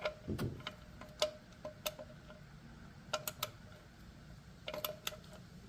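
Ratchet wrench clicking in short runs of a few clicks, with a light metallic ring, as a bolt is snugged down gently by hand during an oil change.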